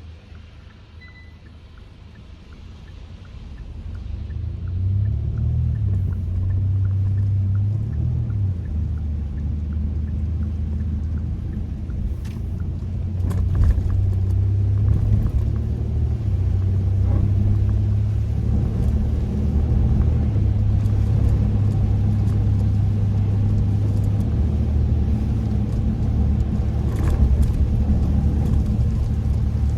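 Kia K5 (DL3) sedan being driven, a low steady rumble of engine and road noise that grows louder a few seconds in as the car picks up speed, with a few faint clicks.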